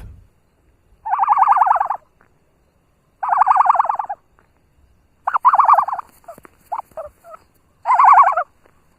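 A bird calling in four rapid rattling bursts, each under a second long, about two seconds apart.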